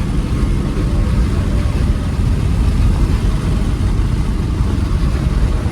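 Nissan Altima with a six-speed manual gearbox running steadily on the move, its engine and road noise heard from inside the cabin as a loud, even low rumble.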